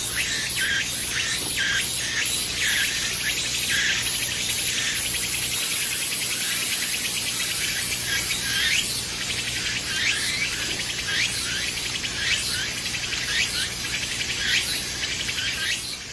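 Insects chirring in a steady pulsing rhythm, with short bird calls over it: forest ambience.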